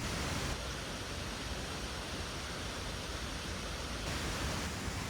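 Steady rushing water noise with no distinct events, its tone shifting slightly about half a second in and again about four seconds in.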